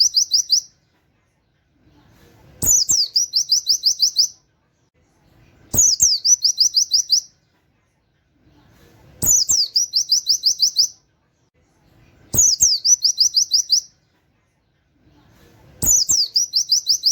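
White-eye (pleci) singing in a fast burst: a sharp swooping whistle, then a rapid run of about eight quick 'wit' notes. The phrase is repeated about every three seconds, six times.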